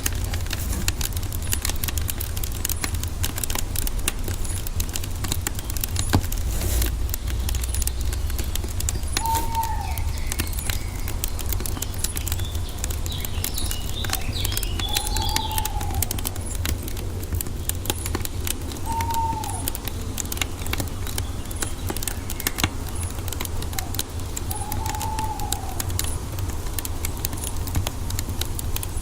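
Wood fire crackling with constant small pops over a steady low rumble, while a bird gives a short arched whistle four times, spaced several seconds apart, with a few higher chirps in between.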